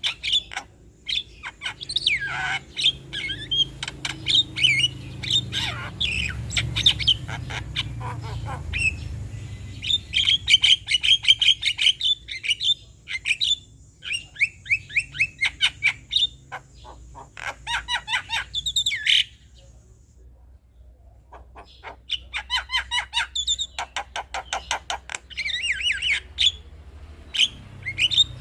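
Male Javan myna (jalak kebo) singing its chattering song: rapid runs of short, sharp repeated notes and chirps in bursts, with a pause of about two seconds roughly two-thirds of the way through.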